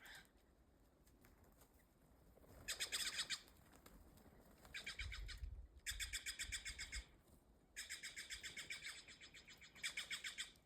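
A bird giving rapid rattling chatter calls, about a dozen pulses a second, in five bouts of a second or two each.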